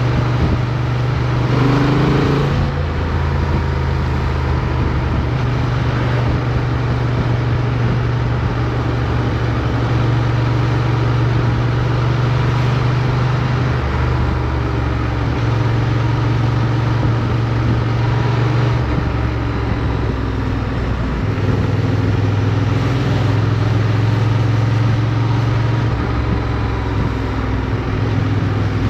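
Motorcycle engine running while riding, its note holding steady and shifting in pitch several times, over steady wind and road rush.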